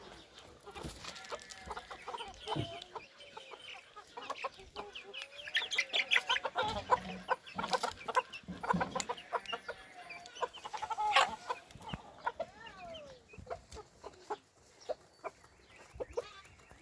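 Chickens clucking, many short calls overlapping, busiest and loudest in the middle.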